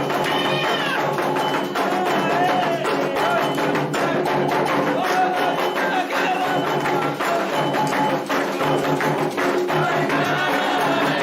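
Candomblé ritual music: atabaque hand drums and a struck bell keep a fast, dense rhythm while a group of voices sings over it.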